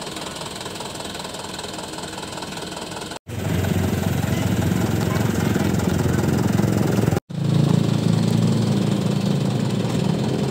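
Truck's diesel engine running with a steady low drone, in spliced clips broken by two brief dropouts; after the first dropout the engine is much louder.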